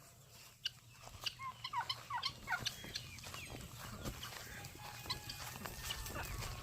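Faint poultry calls: a quick run of short calls falling in pitch from about a second in, then softer scattered calls over small ticks and a low steady hum.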